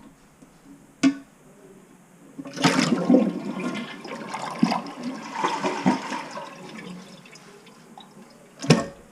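Toilet flushing: a click of the handle about a second in, then a rush of water that fades away over about five seconds as the bowl empties down the thawed, reconnected drain. A sharp knock near the end.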